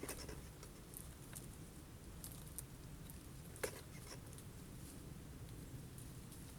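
Birds pecking at sunflower seeds on a feeder: scattered sharp taps and clicks, with one louder knock about three and a half seconds in, over a faint low rumble.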